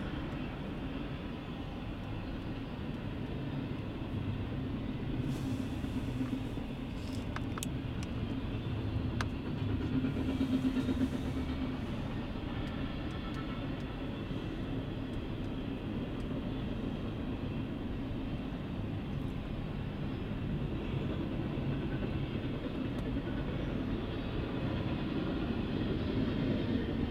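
Intermodal freight train cars, double-stack container cars and trailer flatcars, rolling past on the rails: a steady rumble of steel wheels on track, a little louder about ten seconds in.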